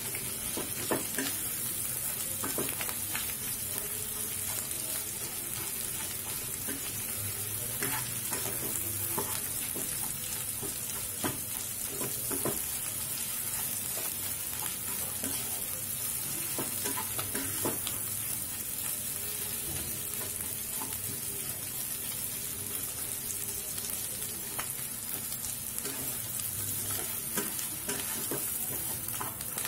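Potato-and-onion masala sizzling steadily in oil in a kadhai while a wooden spatula stirs it, with scattered clicks and scrapes of the spatula against the pan.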